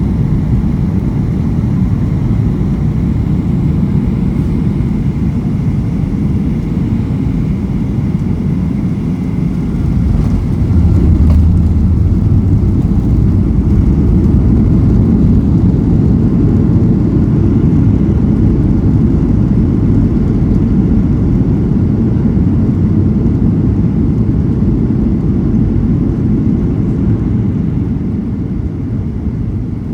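Cabin noise inside a Boeing 737-800: a steady low rumble of engines and airflow. It grows louder about ten seconds in and eases off near the end.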